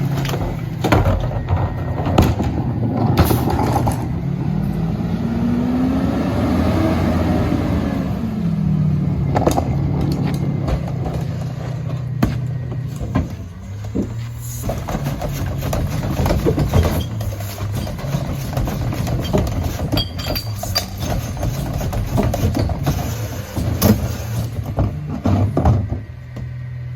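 Diesel engine of a Mack LR rear-loader garbage truck running, with many sharp knocks and bangs scattered throughout. Between about four and nine seconds in, the engine revs up and settles back down once.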